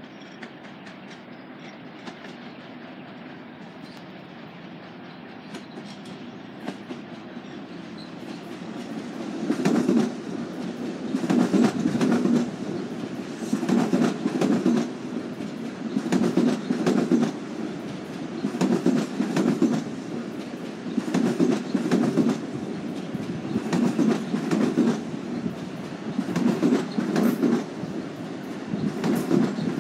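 Long Island Rail Road M7 electric train approaching with a rising rumble, then rolling past with its wheels clattering over the rail joints. From about ten seconds in, the clatter comes in an even rhythm, one group of clacks about every two and a half seconds as each car goes by.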